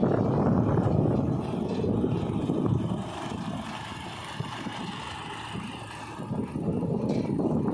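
A small boat's motor running steadily, with wind buffeting the microphone; the sound eases off in the middle and swells again near the end.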